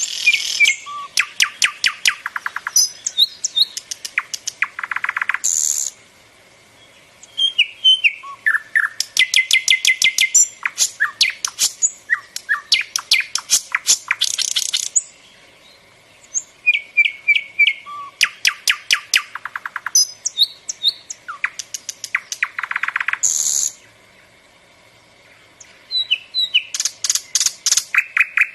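Nightingale singing: long phrases of rapid, repeated clicking and whistled notes, broken by three short pauses of a second or two.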